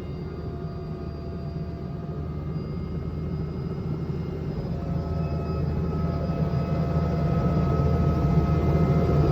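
Tour helicopter running, a steady low rumble with a whine of steady tones above it, growing gradually louder.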